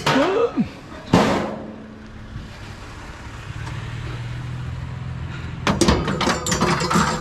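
A truck door squeaks and slams shut about a second in. The engine then runs with a steady low hum, and loose metal and load rattle and knock near the end.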